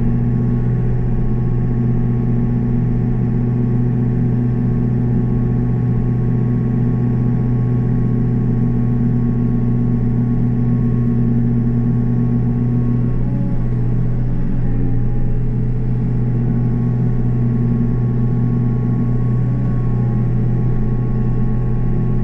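Takeuchi TB285 mini excavator's engine running at raised RPM, driving the hydraulic motor of a Blue Diamond 42-inch rotary cutter while it mows grass; a steady machine sound with a brief change in tone about thirteen to fifteen seconds in.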